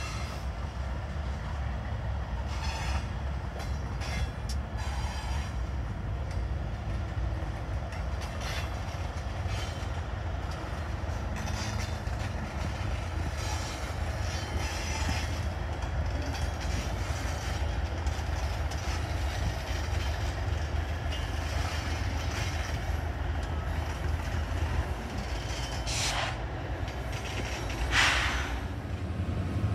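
A long freight train of tank cars and covered hoppers rolling past behind two BNSF diesel locomotives: a steady low rumble with faint wheel clicks. Two brief sharp noises come near the end, the second the loudest.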